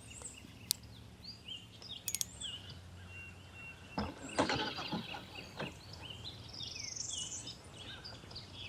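Several birds chirping and singing in quick short notes, with a few sharp clicks and knocks about two seconds and four seconds in, over a faint steady low hum.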